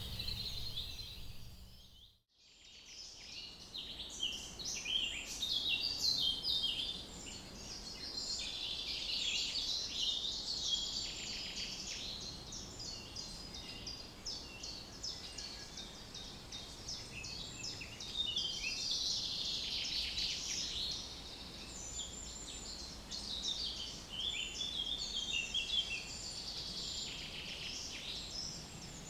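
Dense chorus of small birds chirping and singing over a low, steady background noise. The sound drops out briefly about two seconds in, then the chorus resumes.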